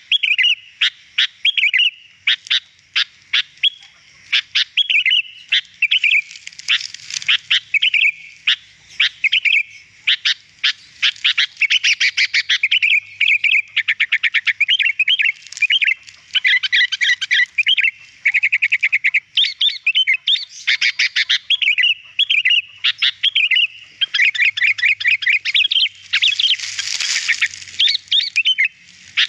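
Sooty-headed bulbul (kutilang) singing continuously in rapid chirps and whistled phrases, broken by fast trills and a harsher, noisier call near the end.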